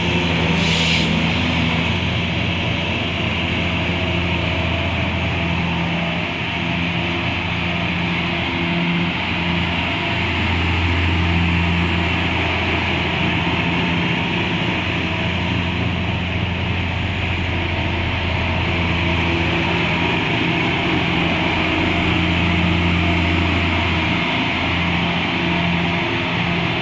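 Diesel engine of a Liebherr R 944B demolition excavator running steadily, its low hum wavering slightly with load, with a short hiss about a second in.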